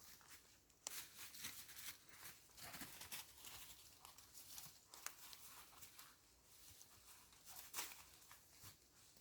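Faint, irregular crunching and rustling, a string of short crackly noises with a sharper one about a second in and another near the end.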